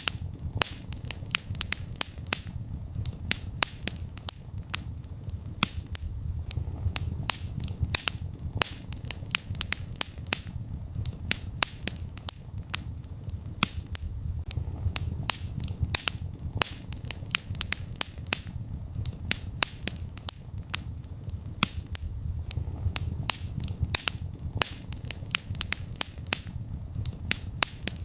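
Wood fire burning in a fireplace: a steady low rumble of the flames with sharp crackles and pops at an irregular pace, several a second.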